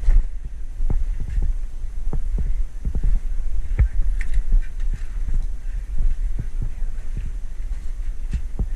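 Steady low rumble with dull, irregular thumps about twice a second, the sound of a player's footsteps and movement jolting a body-worn camera and its microphone.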